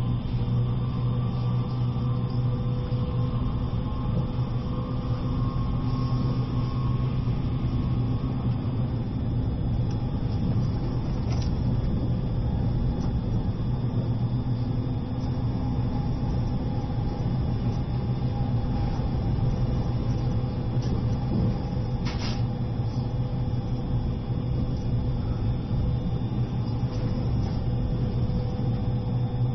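Steady running noise inside the cabin of an E653-series electric limited express train: a low rumbling drone with faint steady hums above it, and two brief clicks about eleven and twenty-two seconds in.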